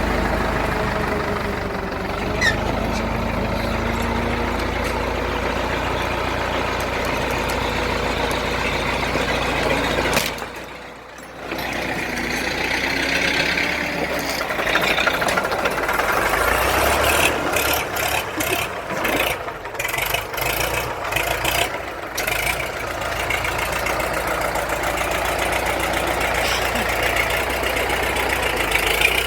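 Universal U650 tractor's four-cylinder diesel engine running steadily with a diesel clatter, briefly dropping in level about ten seconds in.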